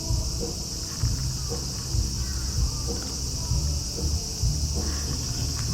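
Steady, high-pitched chorus of insects. Under it run a low rumble and soft thumps about once a second.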